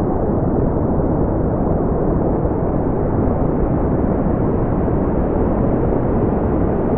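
Steady brown noise: an even, deep rushing hiss with most of its energy in the low end and no treble, unchanging throughout.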